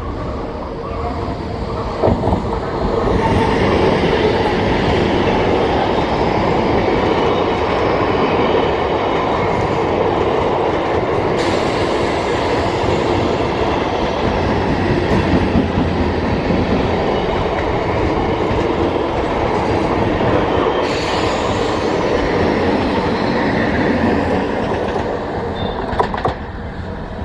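A train passing close by, its wheels clattering over the track. The sound builds up about two seconds in, runs steadily, and falls away near the end.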